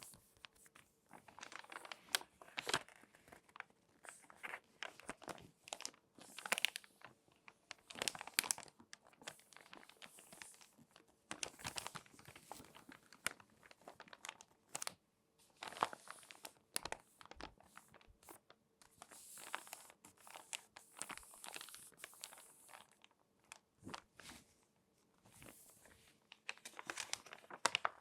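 Crinkly magazine pages being folded and creased by hand: irregular runs of paper crinkling and crackling with short pauses between.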